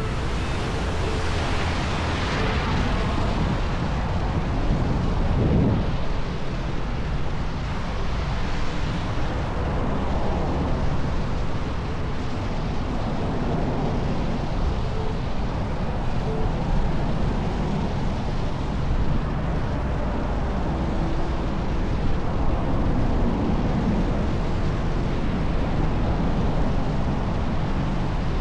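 Steady rushing wind noise on the camera's microphone, mixed with road noise, while riding an electric unicycle, with brief gusts swelling it now and then.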